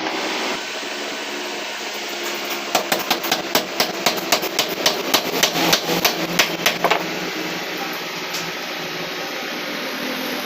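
Quick hammer blows on metal, about five a second for some four seconds, as when driving a motorcycle swing-arm bush in or out, over a steady background hum.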